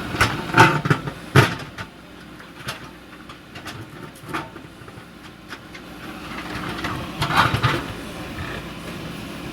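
Backhoe loader's diesel engine running with a steady hum, overlaid by metallic clanks and knocks. The knocks come in a cluster in the first second and a half, singly a few times after, and in another cluster about seven and a half seconds in.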